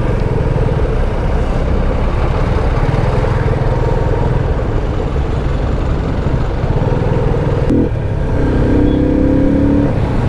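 Motorcycle engine running while riding, with steady road and wind noise. About eight seconds in there is a short break, after which a steadier, even engine note holds.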